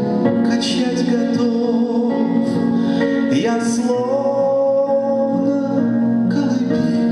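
Live band playing a 1970s–80s style pop song, with sustained held notes.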